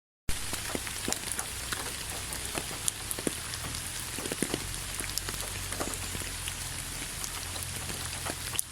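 Light rain falling, a steady hiss with many scattered sharp taps of individual drops landing, starting about a third of a second in.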